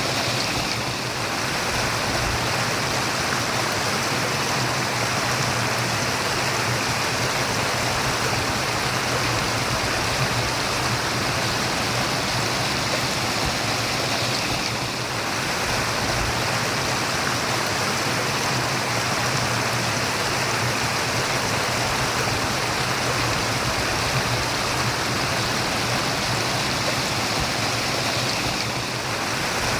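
Stream water murmuring steadily.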